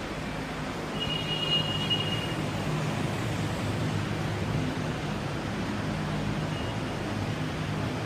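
A vehicle engine running steadily with a low hum, with a brief high squeal about a second in.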